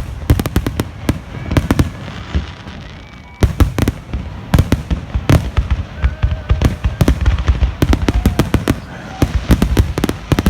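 Fireworks display: a rapid string of sharp bangs and crackles, with a short lull about two to three seconds in before the bangs pick up again.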